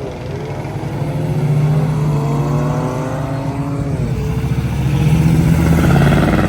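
A vehicle's engine revving. Its pitch climbs steadily for about three seconds, falls back sharply, then climbs again near the end.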